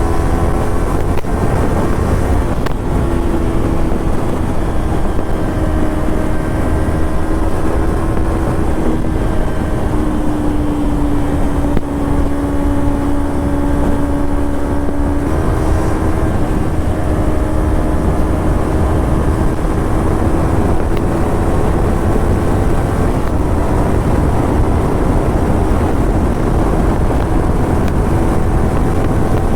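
Kawasaki Ninja 300's parallel-twin engine and exhaust under way while riding, holding a fairly steady note that drifts slowly, then steps up in pitch about halfway through, over a low rumble of wind and road noise.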